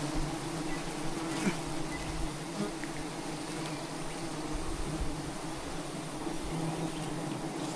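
A swarm of wild honeybees buzzing around their hive, a steady dense hum of many wings.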